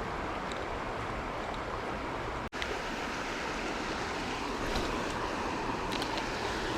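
Steady rush of flowing creek water, cut off for an instant about two and a half seconds in, with a few faint ticks in the second half.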